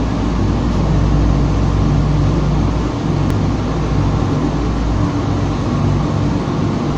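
Oil-recycling machine running with a steady, loud mechanical hum and rumble.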